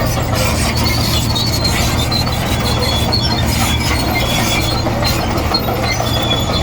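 Komatsu D58E crawler bulldozer at work: its diesel engine runs steadily, with scattered high squeaks and clinks from the steel tracks and undercarriage.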